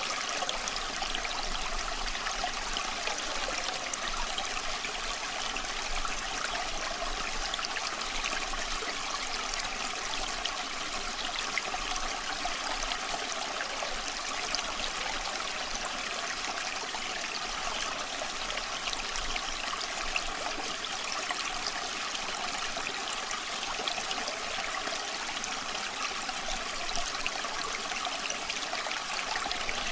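Small stream babbling and trickling in a steady rush of water.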